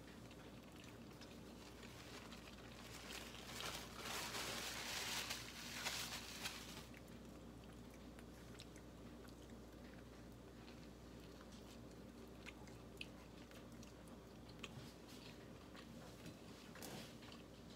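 Close-up chewing of an egg sandwich on crisp-edged toasted bread. A louder stretch of crunching comes a few seconds in, then quieter, scattered mouth clicks.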